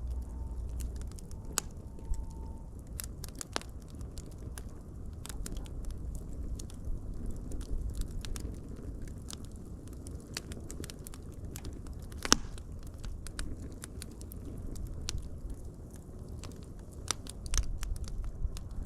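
Fire crackling steadily, with irregular sharp pops over a low rumble of flame; the loudest pops come about a second and a half in and about twelve seconds in.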